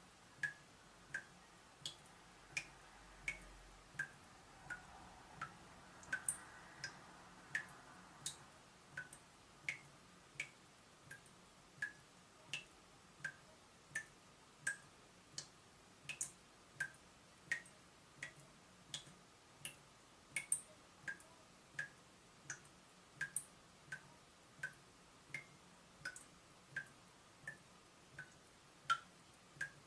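Water drops falling from a leaking tap at a steady rate, about three drops every two seconds, each a short, sharp plink.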